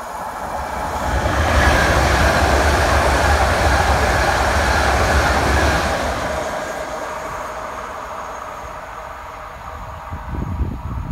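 Electric passenger train passing close by at speed: a rushing rumble of wheels on rail that swells over the first two seconds, holds loud for about four seconds, then fades as the train recedes.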